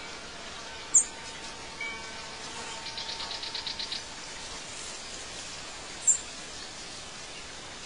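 Songbirds chirping over a steady hiss of outdoor ambience: two sharp high chirps about five seconds apart and a quick trill of about ten notes around the middle.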